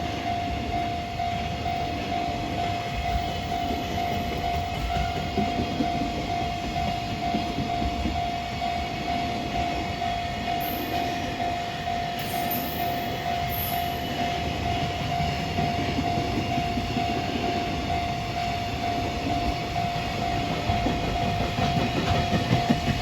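Freight train passing on the line, its wagons rumbling and clattering over the rails, with a steady high tone held throughout.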